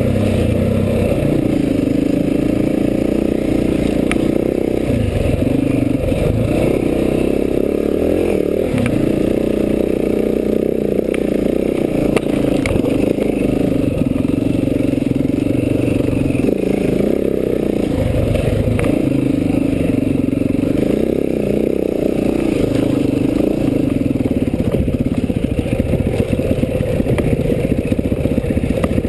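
Enduro dirt bike engine on the move, its revs rising and dropping again and again as the bike is ridden over rough trail, with a few sharp knocks and clatters from the bike and the ground.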